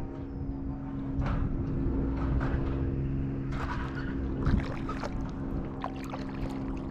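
Kayak paddle blades dipping and splashing in the water in uneven strokes about once a second, over a steady low hum.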